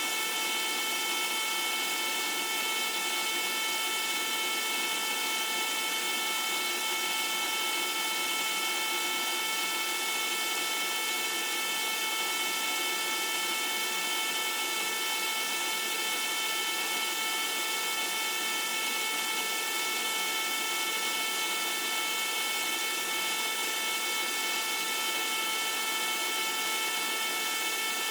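Small pump running steadily, circulating vinegar through an on-demand (tankless) water heater to descale it: a constant motor whine over a hiss, unchanging throughout.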